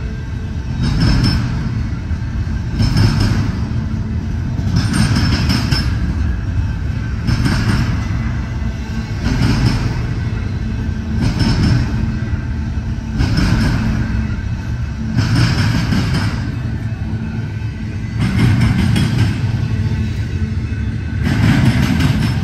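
Double-stack intermodal freight train rolling past at speed: a steady low rumble of steel wheels on rail, with a loud clatter that comes back about every two seconds.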